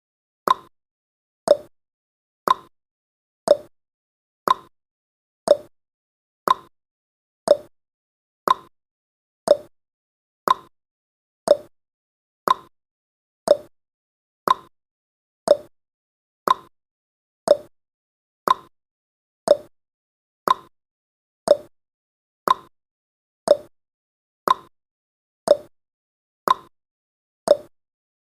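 Countdown timer's clock-tick sound effect: short sharp ticks once a second, alternating between a higher and a lower tick like a tick-tock.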